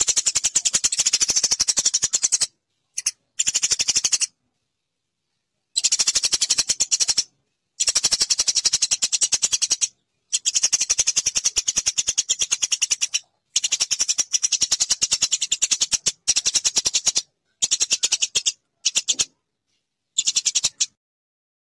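Eurasian tree sparrows chattering: fast trains of high, clipped chirps, about a dozen a second, in bouts of a few seconds broken by short gaps of dead silence.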